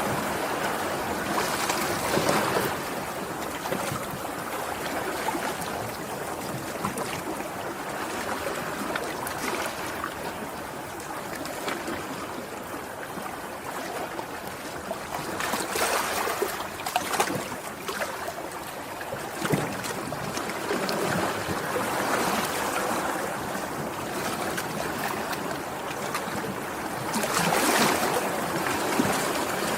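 Sea waves washing in, a steady rush of surf that swells louder a few times as larger waves break.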